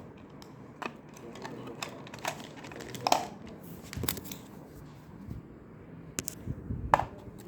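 Scattered light plastic clicks and taps from handling a small RC car and its battery and parts, about six sharp knocks spread unevenly with quiet between.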